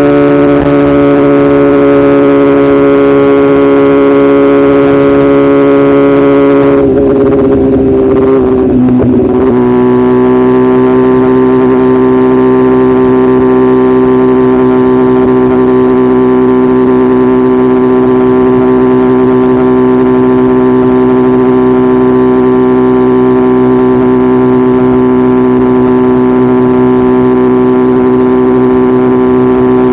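BMW S1000RR's inline-four engine running at steady cruising revs, loud and even. About seven seconds in the note dips and falters for a couple of seconds, then settles at a slightly lower steady pitch.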